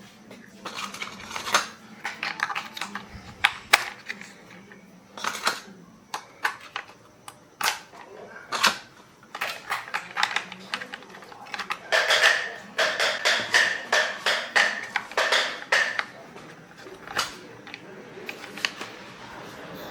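Clicks and knocks of small parts and hand tools being handled while a plastic toy is repaired. There are scattered single clicks, then a dense run of rapid clicking for a few seconds in the middle.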